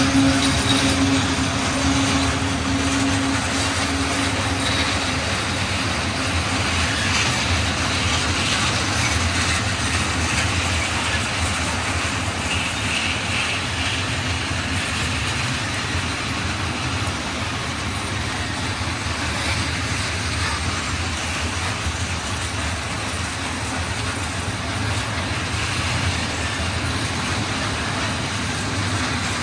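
Freight train of open wagons hauled by an ET22 electric locomotive rolling steadily past, a continuous noise of wheels on rails. A hum heard in the first few seconds fades as the locomotive draws away.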